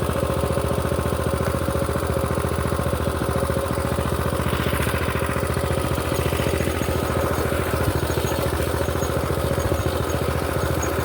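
Mini bike's small engine running steadily up close, with even firing pulses and little change in speed.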